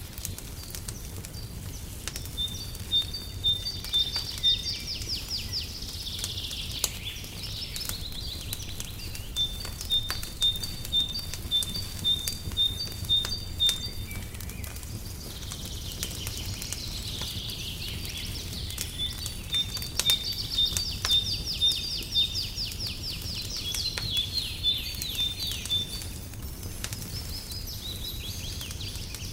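Songbirds singing runs of quick, evenly repeated high notes and fast trills, in several bouts, over the scattered snaps and crackles of a wood fire in a fireplace and a steady low rumble.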